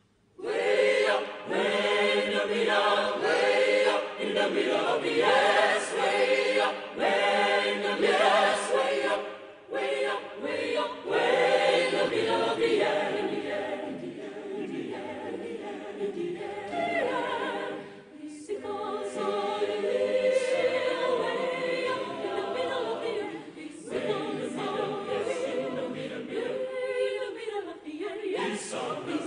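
Choir singing a cappella, starting about half a second in after silence.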